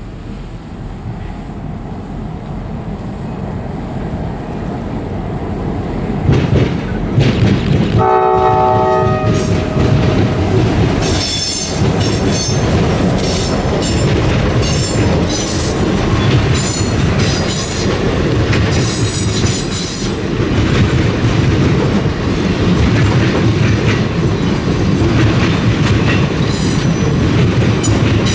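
Diesel-hauled freight train approaching and growing louder, with one short blast of a multi-chime locomotive air horn about eight seconds in. The locomotives and cars then pass close by with steady wheel clatter and bursts of high-pitched wheel squeal.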